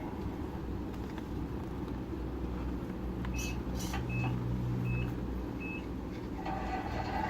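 Tamiya RC truck's sound unit playing a diesel engine running, rising a little in the middle, with four short evenly spaced beeps like a reversing warning, plus a few clicks.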